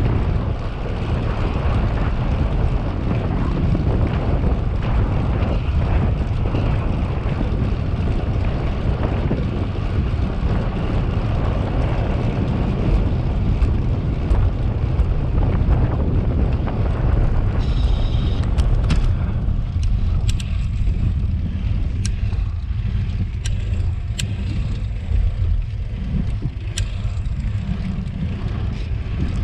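Wind buffeting the microphone of a cyclist's camera while riding, a loud steady low rumble with a rushing hiss that thins out about two-thirds of the way through. A brief high-pitched sound comes around that point, followed by a few sharp clicks.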